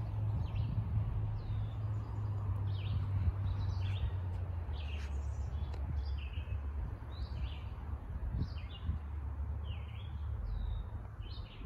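Small birds chirping: short, high calls repeating every second or so, over a steady low rumble.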